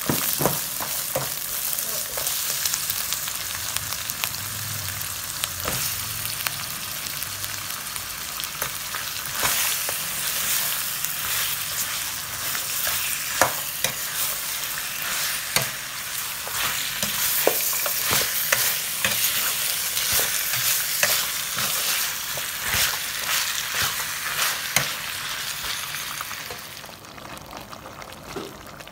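Fermented fish paste and pork ribs frying in a stainless steel pot, sizzling steadily while a metal ladle stirs and scrapes, clicking against the pot. The sizzle drops off near the end.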